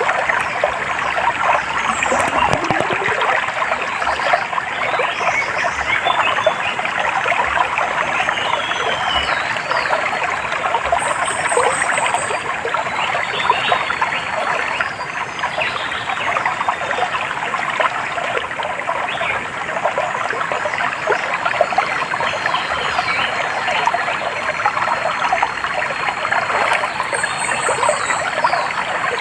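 A small stream trickling and babbling steadily over stones. Faint bird chirps sound above it, with a short high trill twice.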